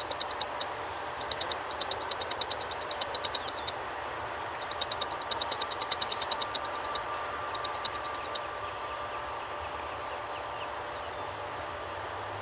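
Steady distant jet aircraft engine noise with a faint steady whine. Over it come several bursts of rapid, high clicking chirps in the first eight seconds or so.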